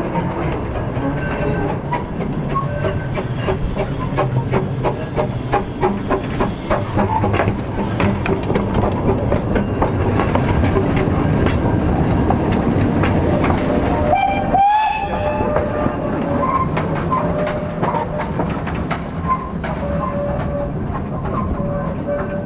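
Small narrow-gauge steam locomotive and its carriages running, with rapid clicks of wheels over the track throughout. About two-thirds of the way in there is one short whistle.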